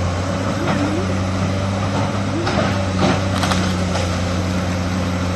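Excavator's diesel engine running steadily under load. A few scrapes and knocks of rock and soil against the bucket come about two and a half to three and a half seconds in.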